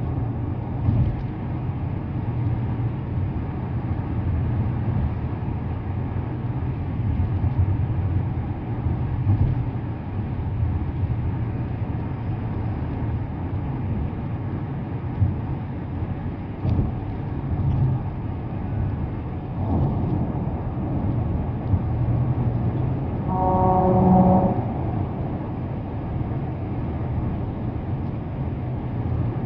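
Car driving at speed, with a steady low road and tyre rumble and hiss. Near the end, a steady pitched tone sounds for about a second.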